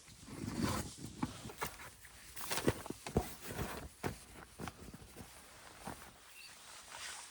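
Dry twigs and leaf litter crunching and snapping, handled and stepped on while firewood is gathered on a forest floor: a rapid run of cracks that thins out after about four seconds.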